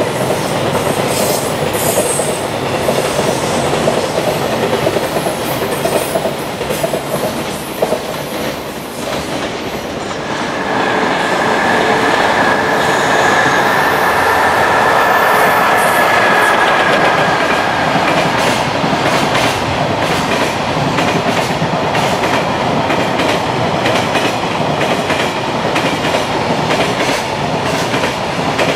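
Long container freight trains passing at speed, with wagon wheels clattering over rail joints. About ten seconds in the sound changes as a second locomotive-hauled freight train comes through, louder, with a steady high whine for several seconds before the clatter of its wagons takes over.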